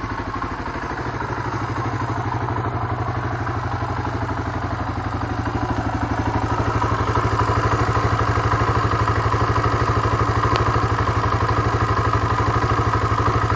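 1994 Suzuki DR350's air-cooled single-cylinder four-stroke engine, fitted with a Mikuni TM33 pumper carburetor, idling with an even, steady beat that grows somewhat louder about six seconds in.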